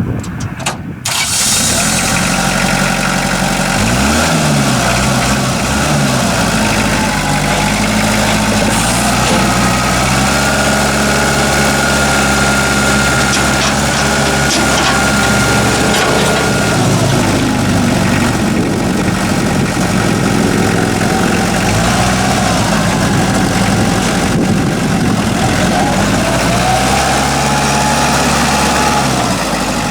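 Kubota MX5000 tractor's four-cylinder diesel engine starting about a second in, then running steadily, with the engine speed dipping and rising a few times.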